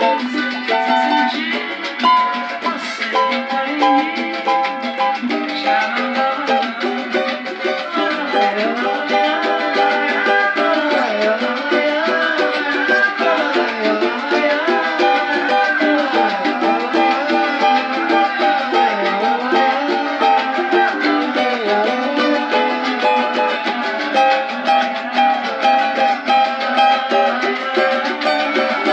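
Cavaquinho being played, plucked notes and chords in a lively instrumental passage, with fast runs of notes through the middle.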